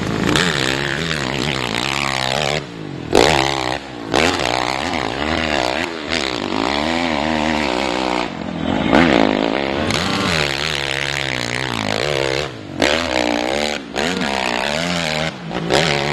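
Dirt bike engines revving hard under full throttle up a hill climb, their pitch rising and falling again and again, with several brief sudden drops in the sound.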